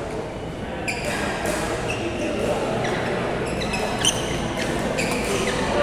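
Badminton rally: rackets striking the shuttlecock in a series of sharp hits, with shoe squeaks on the court floor, the loudest hit about four seconds in.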